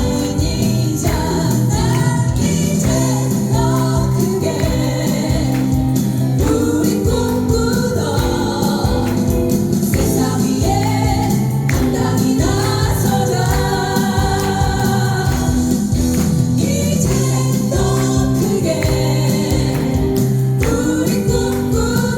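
A vocal group singing a song live over instrumental accompaniment with a steady beat.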